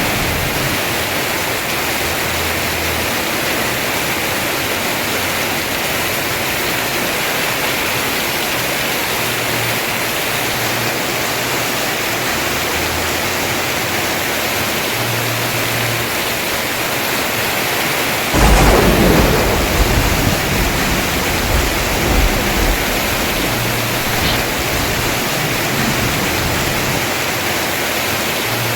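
Heavy rain falling steadily on a house roof. Past the middle a loud crack of thunder breaks in, followed by several seconds of rumbling that dies away.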